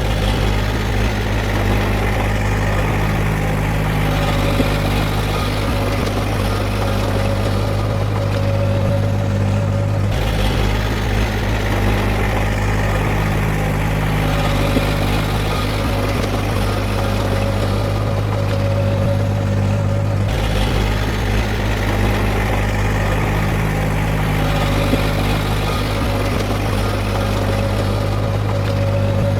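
Heavy diesel engine of earthmoving machinery running steadily with a low hum, its tone shifting abruptly about every ten seconds.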